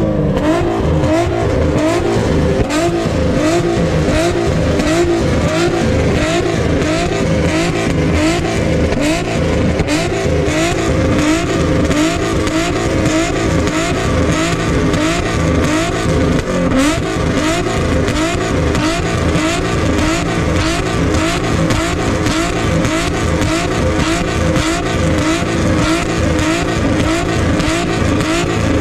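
Car engines revving over and over, each rev a quick rise in pitch repeated about once or twice a second, over steady engine running underneath.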